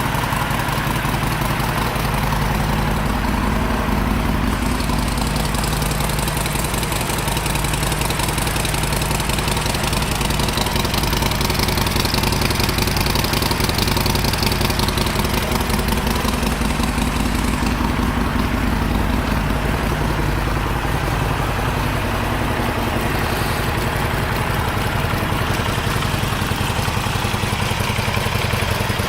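Harley-Davidson Sportster Forty-Eight's air-cooled V-twin idling steadily with a deeper rumble than normal, typical of exhaust baffles that might have been drilled out.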